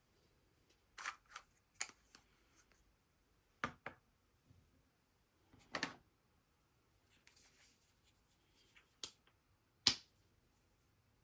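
A few light, irregular clicks and knocks with soft rustling between them, the loudest knock near the end: small objects being handled.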